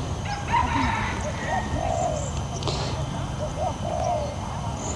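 Birds calling with short, repeated chirping notes over a low steady rumble of outdoor background noise.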